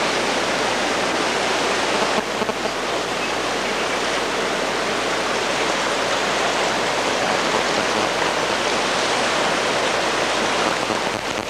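Flash-flood water rushing steadily down a wadi channel.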